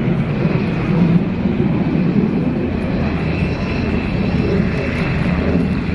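Sikorsky HH-60G Pave Hawk helicopter running close by: loud, steady rotor and twin turboshaft engine noise with a steady high whine over it.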